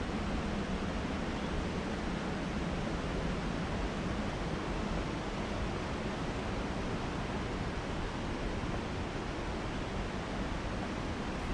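Steady, even rush of a waterfall's falling water heard from the trail above it.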